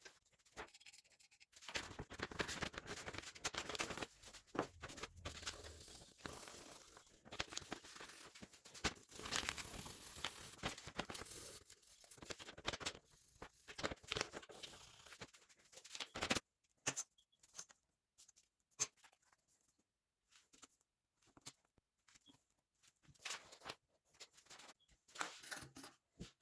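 Hand work on materials at a workbench: about fifteen seconds of rough scraping and rustling with many small clicks, then only scattered light knocks and clicks.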